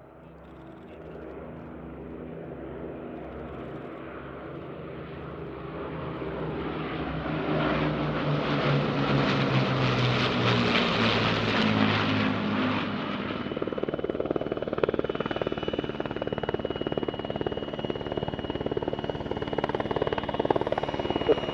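Battle of Britain Memorial Flight's Lancaster, Spitfire and Hurricane flying past on their Rolls-Royce Merlin piston engines. The engine drone swells to its loudest about halfway, then drops in pitch as they pass. From about two-thirds in, a helicopter's rotor chop with a steady high whine takes over.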